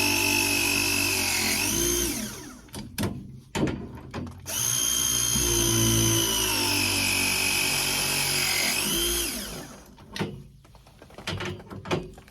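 Milwaukee battery ProPress tool crimping copper press fittings, two press cycles. In each, the motor whines and slowly drops in pitch as the jaws close on the fitting, then rises sharply just before it stops as the jaws release. Between the cycles there are clicks and knocks as the jaws are moved onto the next fitting.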